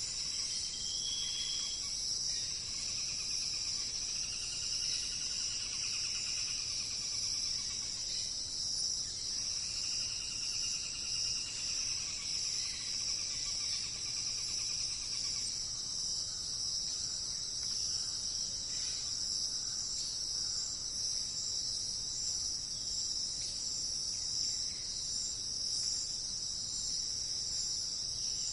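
Forest ambience: a steady, high-pitched insect chorus, with faint bird calls over it in the first half.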